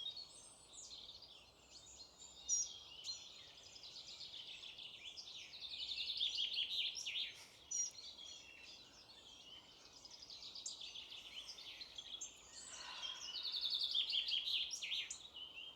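Small songbirds singing in a chorus, with one close bird twice giving a loud, fast trilled phrase, about a third of the way in and again near the end.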